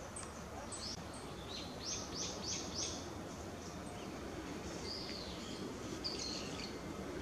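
Small birds chirping: a quick run of four or five short high chirps about two seconds in, then scattered single calls later, over steady low background noise.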